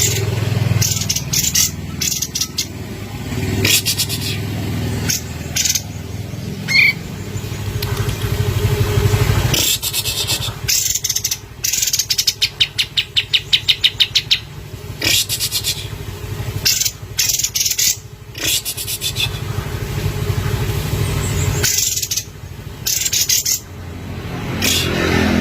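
Olive-winged bulbul (kapas tembak) singing in repeated short, high phrases, with a fast rattling trill about halfway through. A low background rumble runs underneath.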